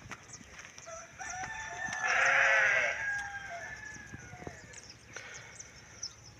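A rooster crowing once: one drawn-out call of about three seconds, loudest in the middle, with faint high chirps in the background.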